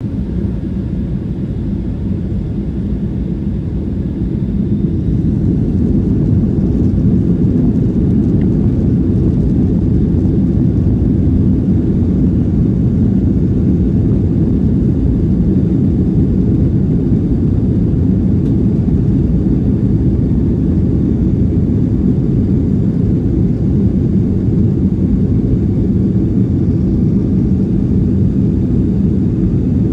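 Jet airliner during takeoff: a steady low rumble that grows louder about five seconds in as the engines come up to takeoff power, then holds steady.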